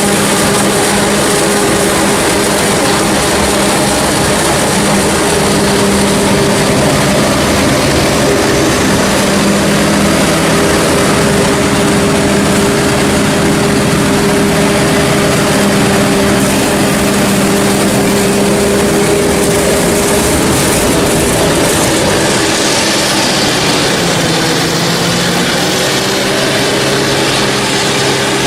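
Heavy diesel engines of a forage harvester and tractor running steadily at working revs, with a dense mechanical noise over the engine hum. Near the end the engine pitch sags briefly and then picks back up.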